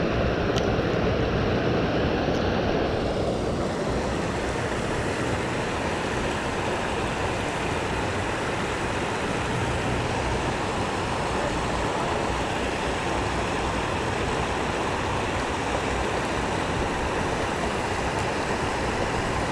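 Steady rush of swift creek water running over rapids.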